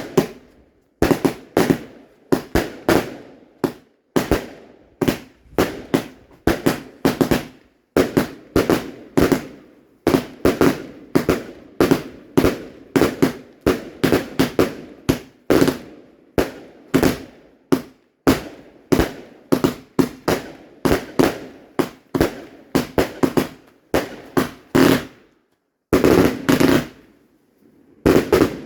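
Fireworks going off in rapid succession: sharp bangs, several a second, each with a short echoing tail, broken by a brief pause near the end.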